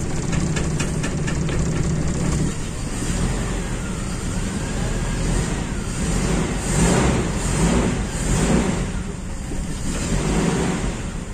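Carbureted Toyota Kijang four-cylinder engine running unevenly, rising and falling, with a misfire ('pincang') that the retimed distributor has not cured. The owner later traces the miss to a snapped vacuum hose line on the intake manifold.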